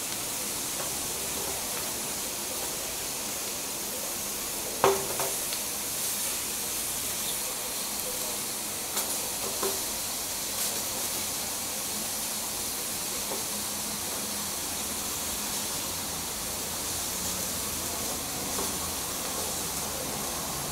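Whole button mushrooms and onion slices sizzling on an electric griddle, a steady hiss with a faint squeaky whining from the mushrooms. A wooden spatula knocks on the griddle plate, once sharply about five seconds in and a few times more lightly later on.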